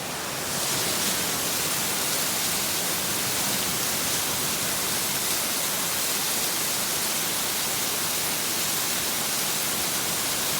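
Rain-fed temporary waterfall, runoff water pouring steadily after heavy rain; the rushing gets louder and brighter about half a second in and then holds steady.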